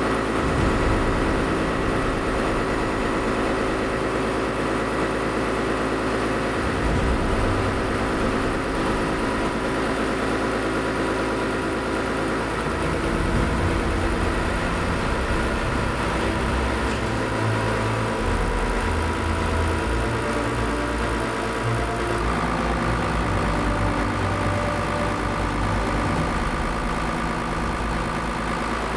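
Steady mechanical running, like an engine or motor-driven machine, with a shift in its tone about 22 seconds in.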